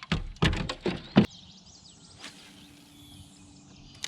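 A quick cluster of about five sharp knocks and thumps in the first second or so, the last the loudest.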